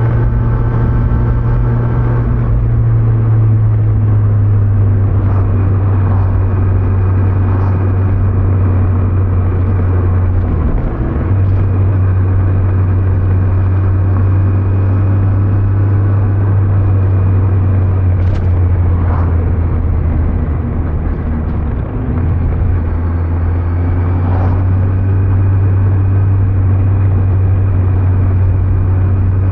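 Kawasaki Z900's inline-four engine with stock exhaust running steadily at cruise, with wind and tyre noise. The engine note dips briefly twice, about a third and two thirds of the way through.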